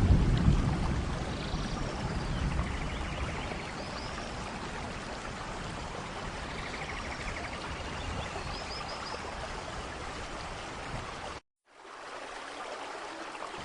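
Steady rainforest rain with a low thunder rumble dying away near the start and faint chirping calls twice. About eleven seconds in, the sound cuts out completely for a moment, then returns quieter.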